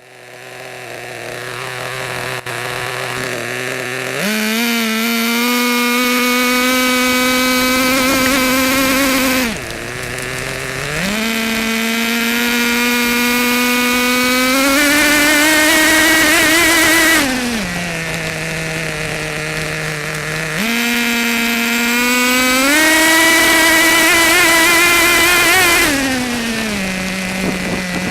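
Small two-stroke nitro glow engine of a Traxxas Nitro Sport RC truck, heard up close from a camera mounted on the truck. It idles low for about four seconds, then revs up and holds a high, buzzing whine through several runs of full-throttle driving, dropping back briefly three times between them.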